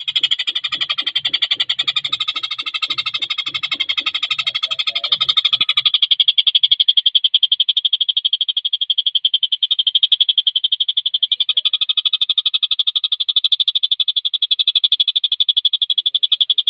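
Tengkek buto songbird singing a continuous, very fast and tightly packed high-pitched trill, the dense 'speed rapat' song used as masteran for training competition birds. A low rhythmic pulsing sounds under it for the first six seconds, then stops.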